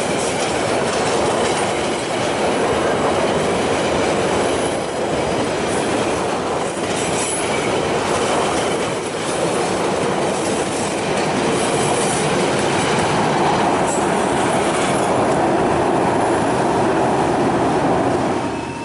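KA Sancaka passenger train passing close by: a loud, steady rumble of its carriages with wheels clattering over the rail joints and a few brief high wheel squeals.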